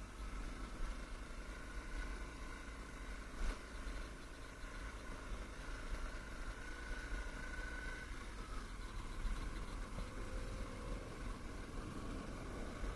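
Motocross bike engines running in the distance: a faint wavering whine over a steady low rumble, with one sharp click a few seconds in.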